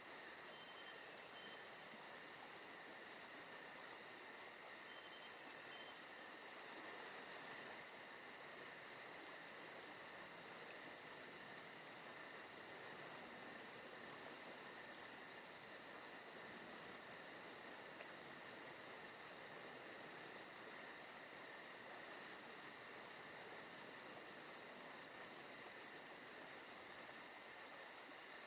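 Faint forest ambience: a steady chorus of chirping insects, with a fast, even pulsing high in pitch.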